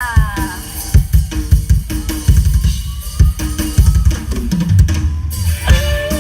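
Isan-style band music: a drum kit plays a driving beat with heavy kick drum and snare hits under pitched melodic notes, and a new held note comes in near the end.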